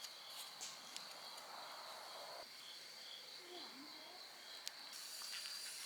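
Crickets chirping outdoors at night: a steady high trill with a second, pulsed chirp repeating about twice a second, plus a few faint clicks.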